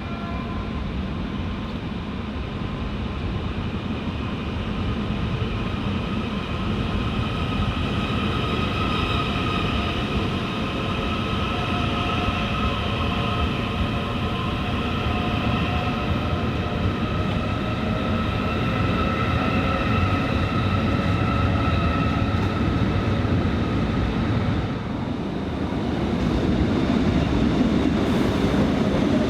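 A train running along the track, a steady rumble with a high, slightly wavering whine of several tones over it. Near the end the sound dips briefly, then returns.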